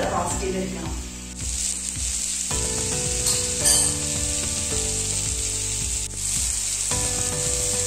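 Sliced okra sizzling steadily in hot oil in a cast-iron kadai as it is roasted, with soft background music held under it.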